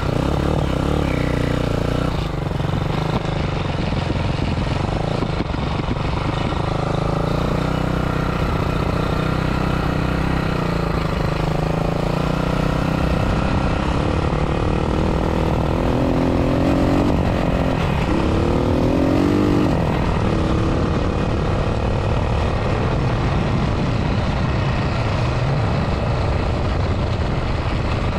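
A 250 motorcycle engine in a small four-wheeler running under load on a test ride, the revs rising and falling again and again, with a run of quick rev-ups about two-thirds of the way through.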